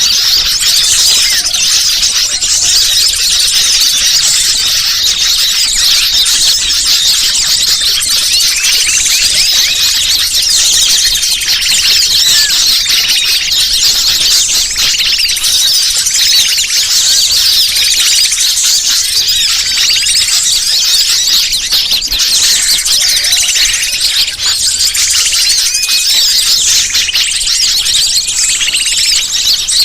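Bird-lure (pikat) recording: a dense, continuous chorus of many small birds' high-pitched chirps and squeaks, overlapping with no let-up, played to call wild birds in.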